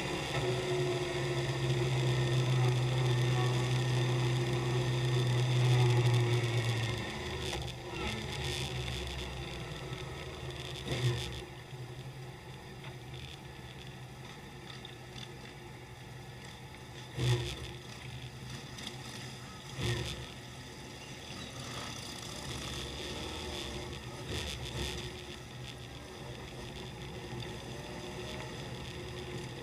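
A motorcycle engine running steadily for about seven seconds, then dropping away to a quieter rumble of engines and background noise, with a few short knocks.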